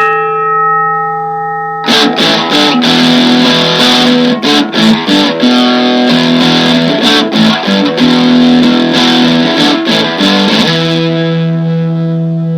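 Electric guitar music: a held chord rings out, then about two seconds in a choppy, rhythmic strummed riff with short stops starts, settling about eleven seconds in onto a sustained ringing chord.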